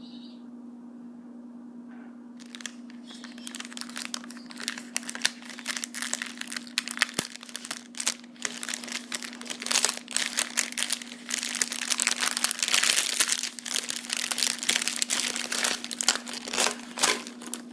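Plastic wrapping crinkling and crackling as it is pulled off a parrot treat by hand. It starts about two and a half seconds in, is thickest through the middle and thins out near the end.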